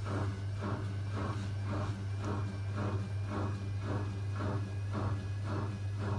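Zanussi ZWC 1301 washing machine's drum turning at low speed to balance the load before its final spin, swishing about two and a half times a second, over the steady hum of its drain pump.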